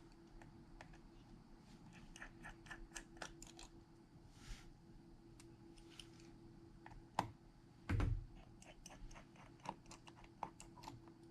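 Light clicks and taps of small repair tools working on a phone's parts, with a louder knock about seven seconds in and a heavier one about eight seconds in, over a faint steady hum.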